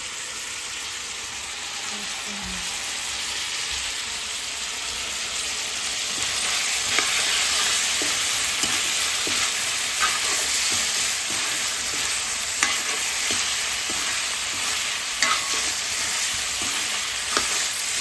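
Vegetables with spices and capsicum frying in a pan, a steady sizzle that grows louder partway through, with the sharp taps and scrapes of a spoon stirring them.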